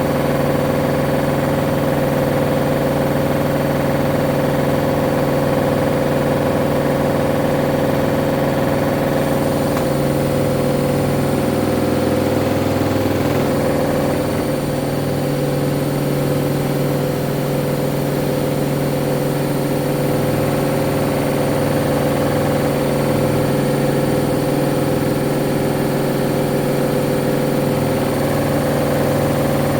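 Hoover washing machine spinning at full speed in its final 1400 rpm spin: the motor and drum run with a steady whine over a low pulsing hum.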